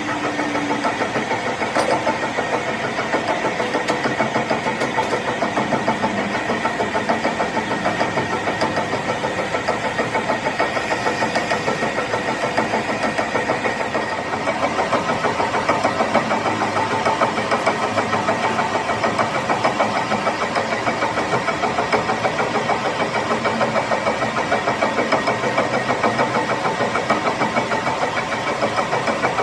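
A workshop machine's motor running steadily, with a regular pulsing beat.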